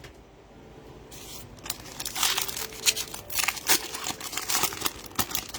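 Foil trading-card pack wrapper being torn open and crinkled, in irregular rustling crackles that start about a second in.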